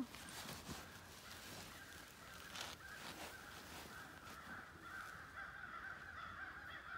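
Faint, wavering bird calls that grow stronger in the second half, with a few light rustles or snaps in the first seconds.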